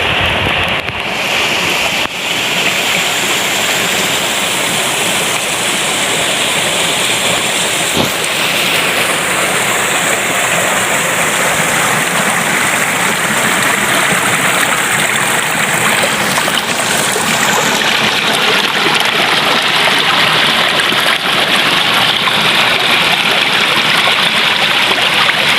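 Steady rushing noise of flowing water, with no clear calls or strikes in it.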